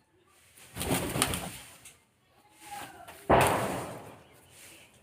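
Birds: two loud rustling bursts, the second and louder one starting suddenly a little over three seconds in and fading away.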